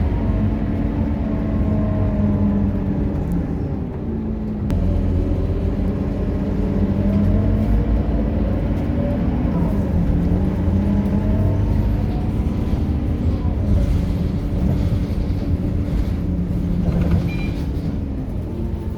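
Scania K230UB city bus's diesel engine running under way, its pitch climbing as the bus pulls and then falling back, several times over, with a steady low rumble and road noise underneath.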